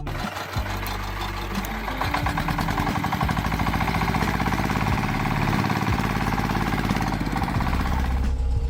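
A small engine running steadily with a rapid, even chugging pulse, which drops away near the end.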